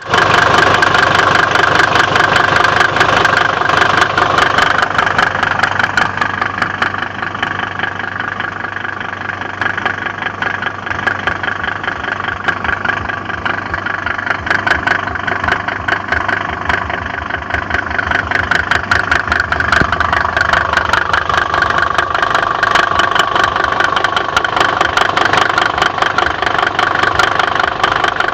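Mercedes-Benz OM605 five-cylinder diesel engine idling with a rapid, regular knocking running through it. This is the engine knock the owner is recording.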